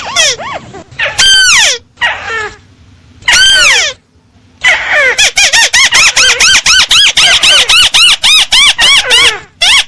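Recorded crake (tikusan) call played as a bird lure: a rapid string of short, sharp notes that each rise and fall, about four or five a second. The call breaks off twice, about two and four seconds in, then runs on steadily.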